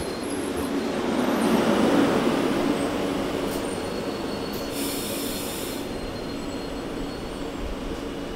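Renfe Media Distancia electric train rolling past the platform at close range, a steady rumble with faint steady tones that is loudest about two seconds in and then eases. A brief hiss comes about five seconds in.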